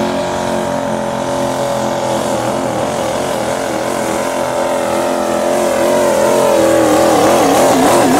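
Diesel pickup truck's engine at full throttle pulling a sled in a truck pull, a loud pitched drone. From about two seconds in its pitch wavers up and down, and it grows louder toward the end.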